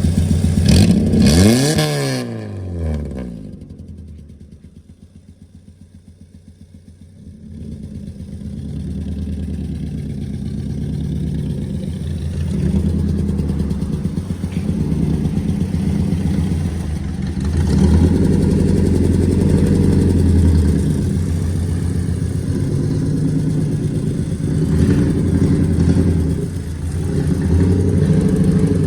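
Straight-piped car engine: one loud rev falls away in pitch near the start, then the sound drops low for a few seconds. From about eight seconds in an engine runs again, louder, its revs rising and falling unevenly.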